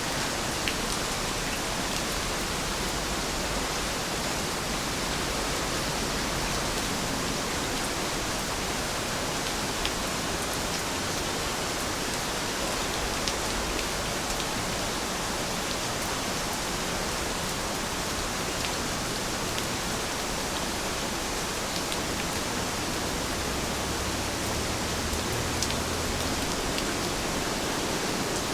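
Heavy rain falling in a steady, even hiss, with a few faint drop ticks.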